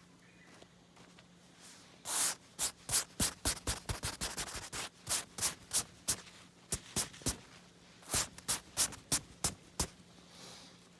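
A run of short, sharp scraping or scratching strokes, irregular, about two to three a second, starting about two seconds in and stopping near the end.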